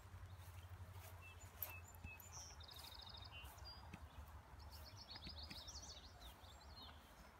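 Faint songbirds singing over quiet outdoor ambience: a short rapid trill about a third of the way in, then a longer run of quick high notes. A steady low hum lies underneath.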